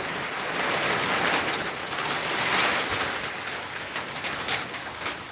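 Heavy storm rain falling as a steady hiss that swells and eases, with scattered sharp ticks of drops striking.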